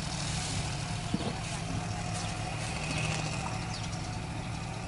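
Heavy truck diesel engine running steadily with a low, even tone, and a single short knock about a second in.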